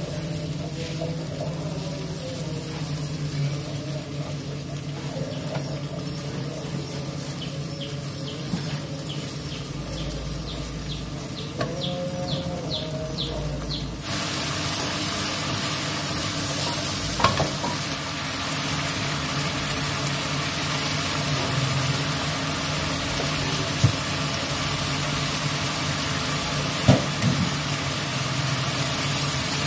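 Ground chili spice paste sizzling in oil in a pan on a gas stove while a wooden spatula stirs it. About fourteen seconds in the sizzle turns abruptly louder and hissier, and a few sharp knocks of the spatula on the pan follow.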